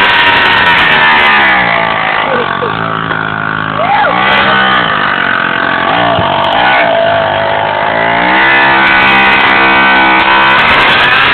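Motorcycle engines revved hard and held high, toward the rev limiter. The revs drop and climb back several times in the middle, then hold high again near the end.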